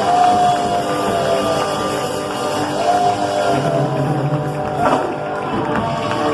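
Worship band music playing an instrumental passage: a held, sliding lead melody over sustained chords, with guitar.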